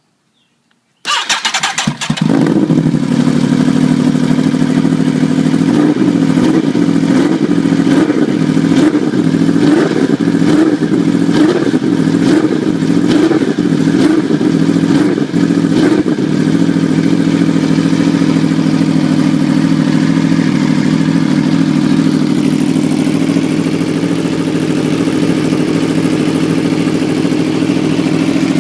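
Aprilia RSV4 V4 engine breathing through an Austin Racing GP2R full-system exhaust, starting up about a second in. It is blipped with a run of short, quick rev bursts, then settles into a steady idle for the second half.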